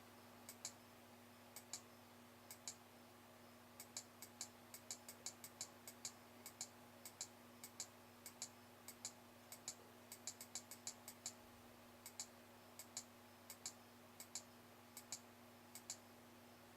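Faint, short clicks at irregular intervals, sometimes several in quick succession, over a low steady hum.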